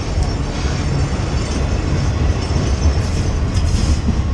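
Freight train of boxcars rolling past close by: a steady, loud rumble of steel wheels on the rails.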